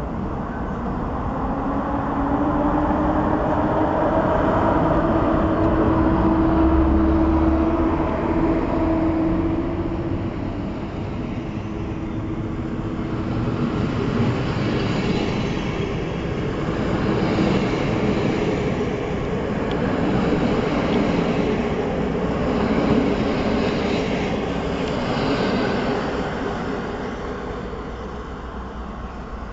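EP07 electric locomotive pulling a passenger train out and accelerating, with a whine rising in pitch over the first several seconds. The coaches then roll past with wheels clattering over the rail joints, and the sound fades near the end as the train moves away.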